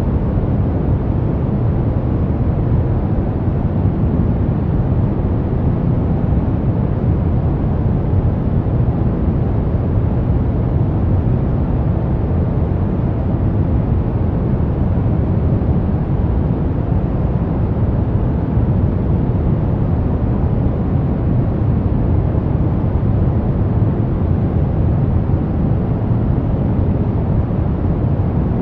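Brown noise: a steady, deep rumbling hiss with most of its energy in the low end, unchanging in level throughout.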